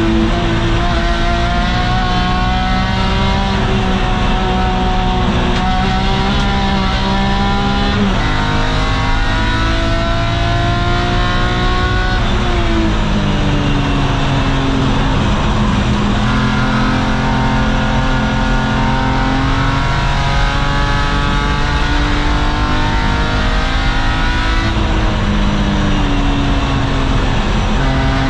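BMW E46 M3's S54 straight-six race engine, heard from the cockpit at high revs on a hot lap. It climbs in pitch through the gears, drops sharply about eight seconds in, falls away around twelve seconds under braking and downshifts, then climbs again and drops once more near the end.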